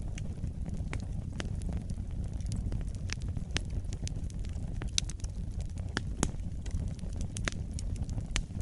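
Wood fire burning in a fireplace: a low steady rumble with irregular sharp crackles and pops, several a second, a couple of louder pops about five and six seconds in.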